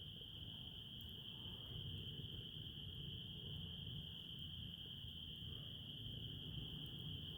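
Crickets trilling in one continuous, unbroken high tone, over a low background rumble with a few faint ticks.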